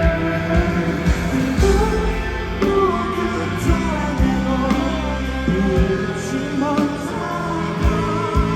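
Rock band playing live: electric guitars and drums, with a lead vocal coming in about three seconds in.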